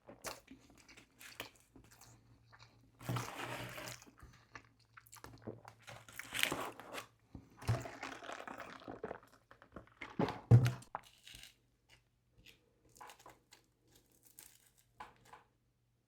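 Close-up eating: crunchy bites and chewing of McDonald's food in irregular bursts, loudest about three, six and a half and ten and a half seconds in, with quieter chewing between.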